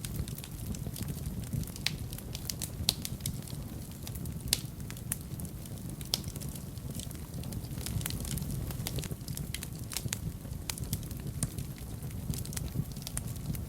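Wood fire burning in a fireplace: irregular sharp crackles and pops over a steady low rumble of the flames, with two louder pops about three and four and a half seconds in.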